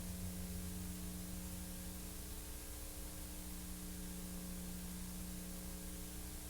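Steady hiss with a low electrical hum and faint steady tones: the background noise of an old silent film transfer that has no soundtrack of its own.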